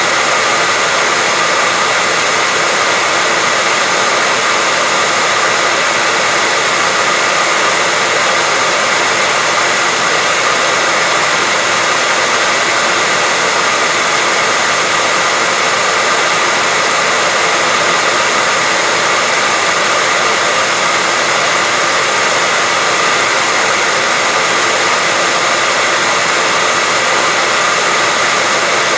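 Hair dryer running steadily on one setting: a constant rushing blow with a faint steady whine from the motor, played continuously as sleep noise for a baby.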